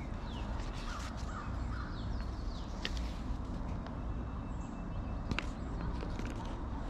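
Birds calling in woodland: a few short harsh calls and some faint high chirps, over a steady low rumble, with a few sharp clicks.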